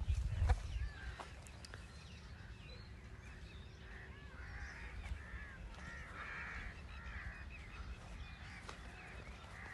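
Birds calling outdoors, crows cawing among them, with a busier run of short repeated calls between about four and eight seconds in. A low rumble sits underneath, strongest in the first second.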